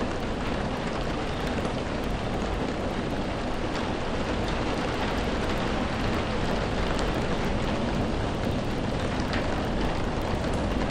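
Steady rainfall, an even hiss of rain on surfaces with a few scattered sharper drop ticks.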